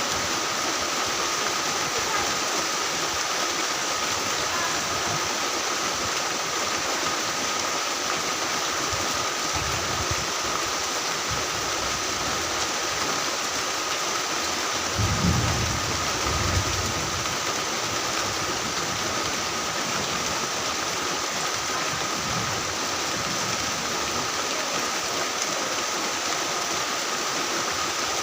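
Heavy rain falling steadily, a dense, even hiss, with a brief low rumble about halfway through.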